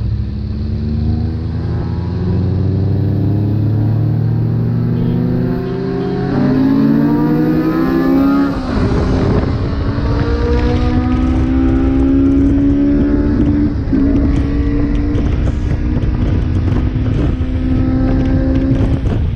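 Car engine running under load, its pitch climbing slowly, with a short break about eight and a half seconds in before it climbs again. It cuts off suddenly at the end.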